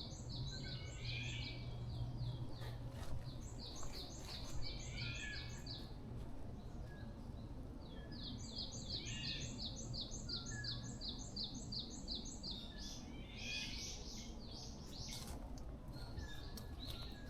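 Wild songbirds singing: one bird repeats a rapid, high series of about a dozen chirps three times, while other birds call more softly in between.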